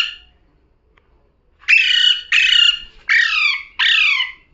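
Pet parrot squawking: four harsh calls in quick succession starting about a second and a half in, each falling slightly in pitch.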